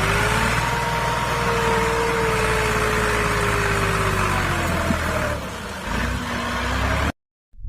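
A small motor running steadily over a mechanical rattle, with a whine that drifts slightly lower. It stops abruptly near the end.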